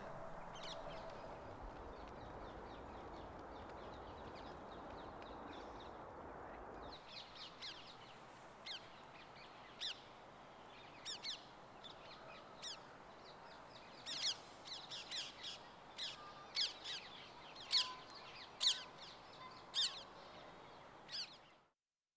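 Birds calling: a steady background hush for the first several seconds, then a run of short, sharp, high calls that come thicker and louder in the second half, several a second at times.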